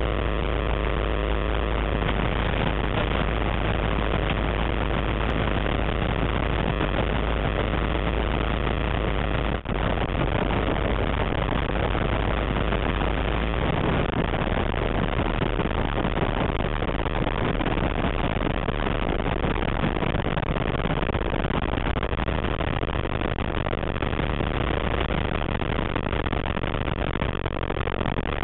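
ATEC Zephyr ultralight's engine and propeller running steadily, with a brief dip in level about ten seconds in.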